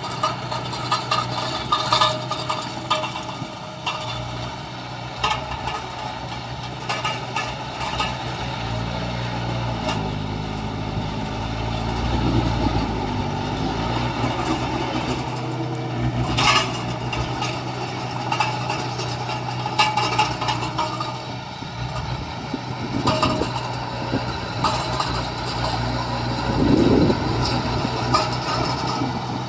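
Diesel engines of heavy earthmoving machines running steadily. The engine pitch rises and falls for a few seconds around the middle, and a few knocks stand out, the loudest about halfway through.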